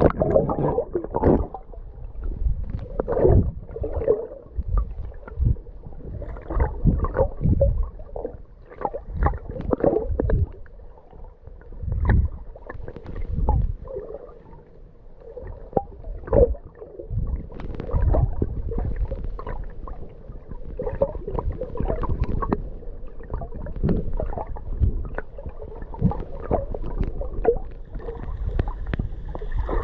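Seawater sloshing and gurgling around the microphone, with irregular splashes, as from a camera carried by a swimmer in the sea.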